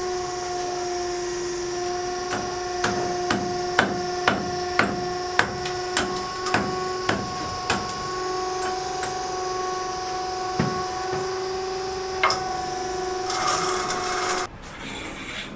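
Hammer blows, about two a second for some five seconds, then two more spaced strikes, over a steady pitched hum that cuts off suddenly near the end.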